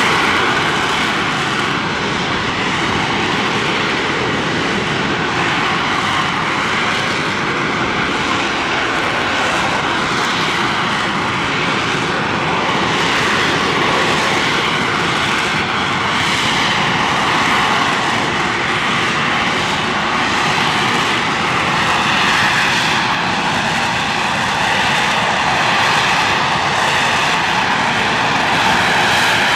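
AV-8B Harrier II+ jet's Rolls-Royce Pegasus vectored-thrust turbofan running at high power, a loud, continuous jet noise that swells and eases slowly.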